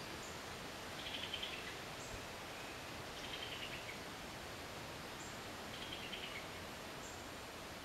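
Songbirds in spring woodland: one bird sings a short phrase that falls at its end, three times about two and a half seconds apart, while a second gives brief thin high notes in between, over a steady outdoor hiss.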